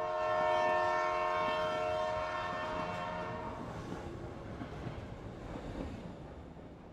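Train horn sounding several notes at once for about three and a half seconds, starting suddenly, then the rumble of a passing train fading away.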